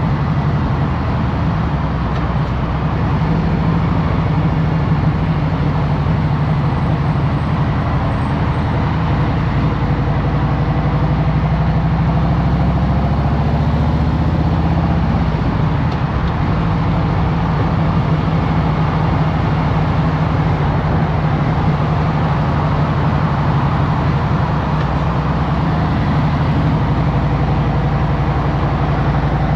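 A Harley-Davidson Road Glide Special's Milwaukee-Eight V-twin running steadily in traffic. About halfway through, the engine pitch rises and then falls back.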